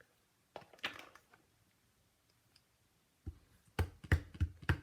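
A few soft knocks, then from about three seconds in a run of quick taps, about three a second: a Memento ink pad being dabbed against a rubber stamp to ink it.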